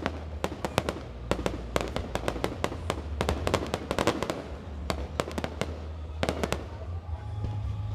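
Fireworks display going off close by: a rapid, irregular string of sharp bangs and crackles from bursting shells, several a second, over a steady low rumble.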